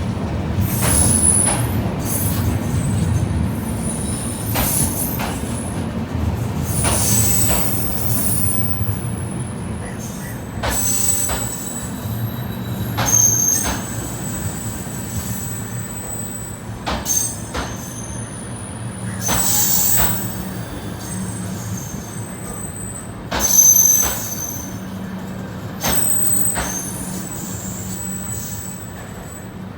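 Train wheels squealing against the rails in repeated short, high-pitched screeches over the low rumble of moving coaches, with occasional clanks.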